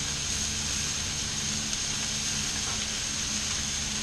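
Steady sizzle of salmon fillets and chicken frying on a Blackstone flat-top griddle, with a constant low hum underneath.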